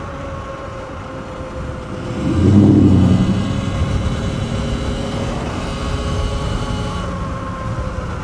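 Sur-Ron X electric dirt bike riding along, its electric motor giving a steady whine over wind and road noise. About two and a half seconds in, a low rumble swells for about a second, as of a passing engine.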